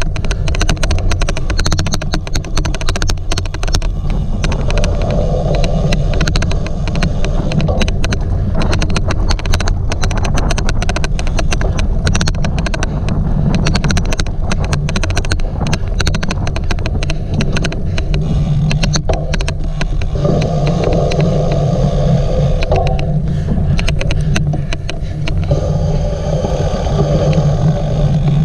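Cyclocross race ride: a loud, steady rumble, with rapid irregular clicks all the way through, the odd clicking noise heard over the whole ride.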